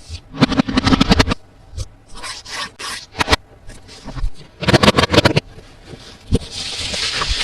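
Toy packaging being handled during an unboxing: three bursts of rapid crackling and clicking, then a steadier scraping rub near the end.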